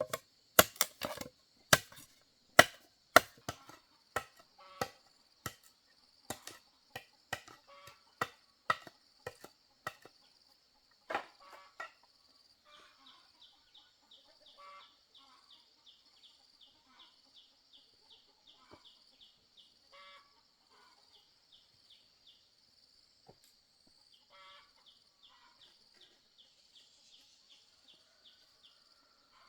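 A tool striking wood in quick repeated blows, about two a second, growing fainter and stopping about twelve seconds in. Insects keep up a steady high-pitched drone throughout, with a rapid chirping after the blows stop.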